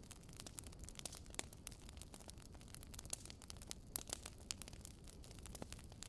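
Faint static-like crackle: irregular sharp clicks, several a second, over a low steady hiss.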